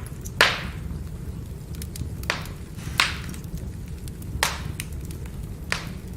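Firewood fire burning, with a steady low rumble and five sharp, loud pops plus fainter crackles as the logs burn.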